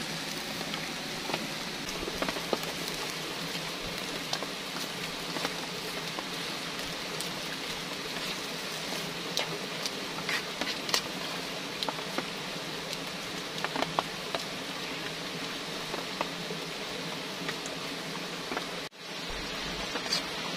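Noodles and greens sizzling in a metal pan over a wood fire, a steady hiss scattered with small crackles and pops as the food is stirred. The sound drops out for an instant near the end.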